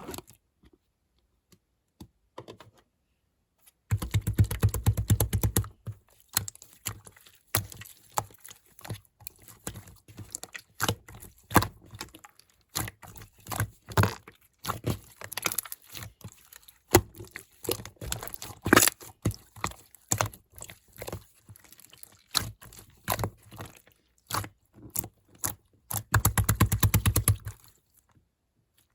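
Slime being pressed and squished by hand, giving a string of crackling clicks and pops, with two denser, louder stretches of crunching, one about four seconds in and one near the end.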